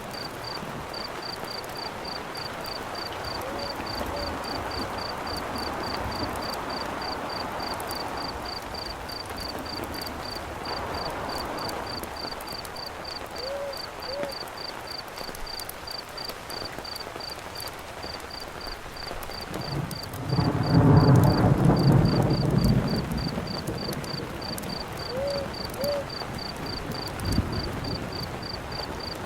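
Rain falling with a cricket chirping steadily in a fast, even rhythm and faint crackles from a campfire. About twenty seconds in, a roll of thunder rumbles for a few seconds and dies away.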